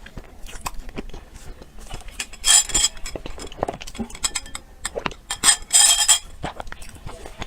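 Close-miked eating sounds from a chocolate dessert: a steady run of wet mouth clicks and chewing, with two short crackling bursts, one about two and a half seconds in and one near six seconds.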